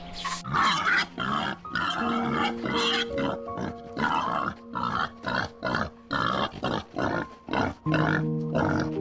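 An animal giving short, noisy calls over and over, about two to three a second, over soft background music with long held notes.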